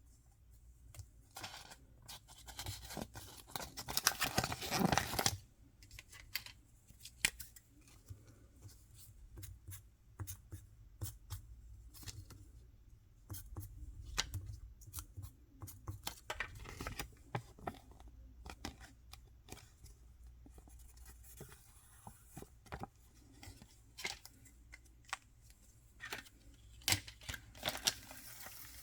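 Toy packaging being opened by hand: a burst of tearing and crinkling about three seconds in, then scattered clicks and taps as small plastic pieces and wrapping are handled.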